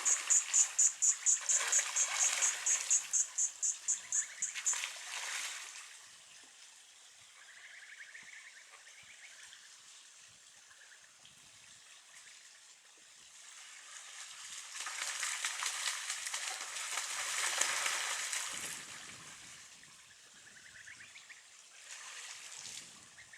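Outdoor nature ambience. A high-pitched animal call pulses rapidly, several times a second, and stops about five seconds in. It is followed by a faint rushing, water-like sound that swells up and dies away again in the middle.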